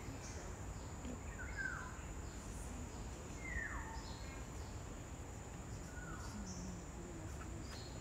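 A bird calling with a whistled note that falls in pitch, three times a couple of seconds apart, over a steady high-pitched insect drone and a low background rumble of forest ambience.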